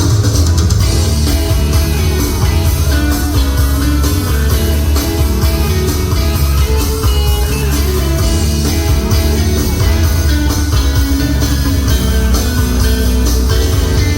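Live band playing an instrumental passage of a pop-rock song: guitar over bass and drums, with no singing.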